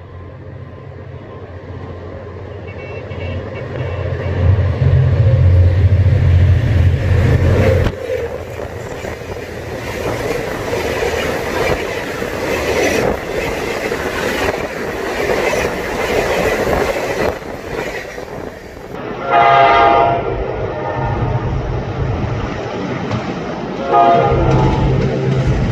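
A diesel locomotive's engine drone builds as a train approaches and passes, then its passenger coaches roll by with a steady rumble and clatter of wheels on rail. Past the middle a locomotive horn sounds, briefly and then again near the end, over the low drone of a locomotive engine approaching.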